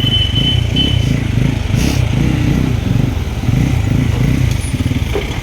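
Motorcycle engine running while riding, its note wavering up and down over a steady rush of road noise.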